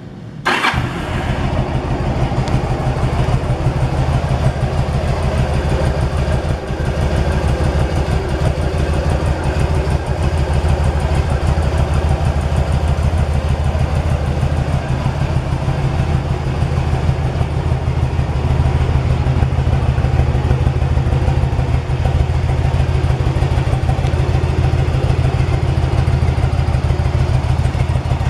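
Yamaha V Star 1100's air-cooled, carbureted 1063cc V-twin fires up about half a second in, then idles steadily.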